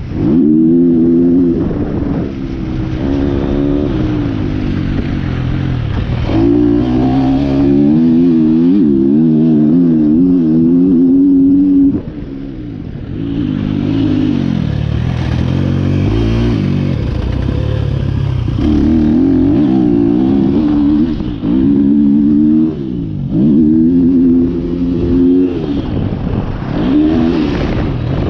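2023 KTM 250 SX-F's single-cylinder four-stroke engine through an Akrapovic Evolution Line exhaust, heard from the rider's position while lapping a motocross track. The revs climb and fall over and over as the throttle is opened and closed, with brief drops when the rider rolls off, around twelve seconds in and again near twenty-two seconds.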